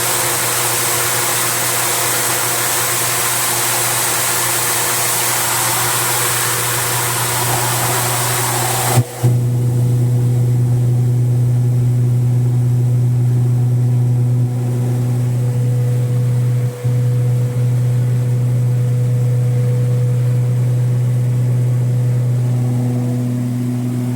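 Corn cracking machine running with a steady engine hum. For about the first nine seconds a loud rushing hiss sits over the hum, then cuts off suddenly, leaving the hum alone.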